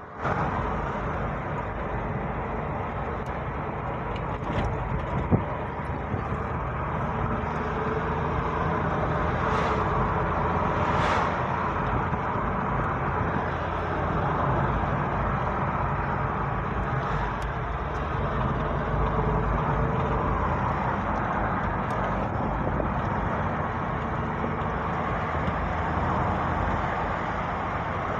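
A car driving along at a steady pace, its engine and tyre noise making an even rumble.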